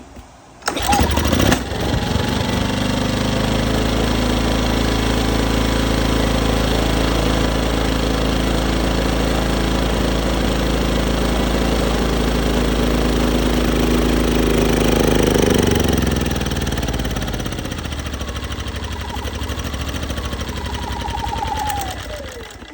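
Westinghouse 2500 inverter generator's small engine starting about a second in and running steadily on starter fluid, then slowing at about two-thirds of the way and dying out near the end. It runs only on starter fluid, a fuel-starvation fault the owner puts down to a clogged fuel filter or bad carburetor.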